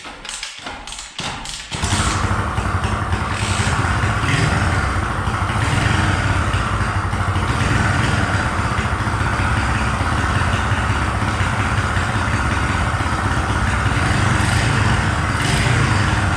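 A Chinese pit bike's small single-cylinder engine: a few clattering knocks, then it fires about two seconds in and keeps running steadily on its refitted original carburettor.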